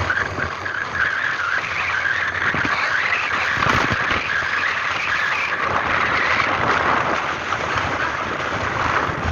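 Motorcycle running under way, a steady rush of engine and wind noise with occasional low knocks from the rough track.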